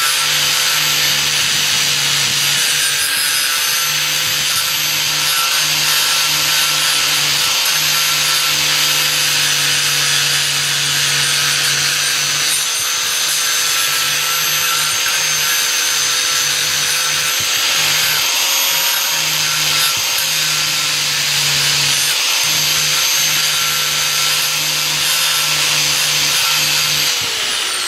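Electric power tool running steadily at full speed. Near the end its motor winds down, the pitch falling as it slows.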